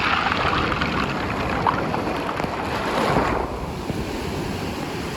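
Sea waves washing in, with wind buffeting the microphone. The bright hiss of the water drops away about three seconds in, leaving a lower rush.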